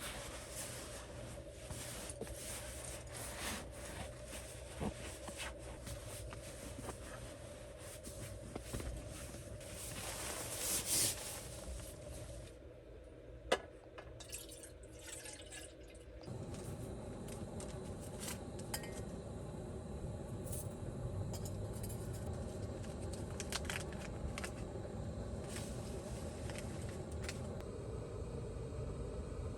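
Light clicks and clinks of small objects being handled, as with camp cups and cookware. About sixteen seconds in, a steady low rumble takes over.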